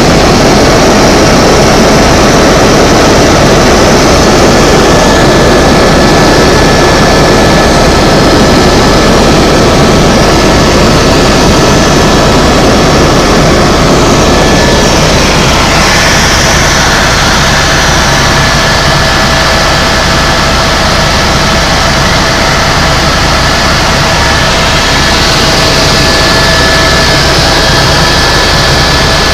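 Helicopter in flight: loud, steady turbine and rotor noise with a constant whine, shifting slightly in tone about halfway through.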